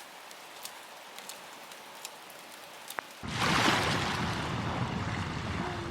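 Light rain hissing, with scattered drips ticking. About three seconds in, a much louder rushing noise with a low rumble cuts in suddenly.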